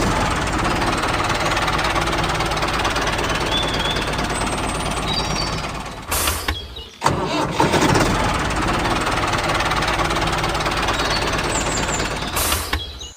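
A DIY mini model tractor running steadily. The sound drops out briefly about six seconds in, then carries on.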